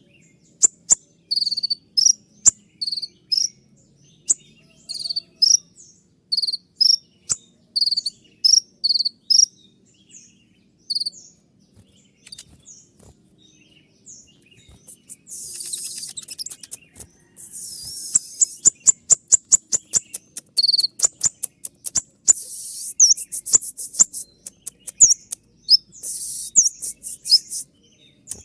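Kolibri ninja sunbird singing: sharp, high, clipped notes repeated in quick groups. From about halfway, hissy, scratchy phrases and fast runs of rapid-fire ticking 'shooting' notes.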